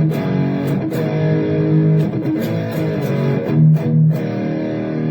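Electric guitar played through the Donner Arena2000 amp-modelling multi-effects pedal with its Dynacomp compressor model engaged: a phrase of picked notes and chords, each attack followed by a sustained ring.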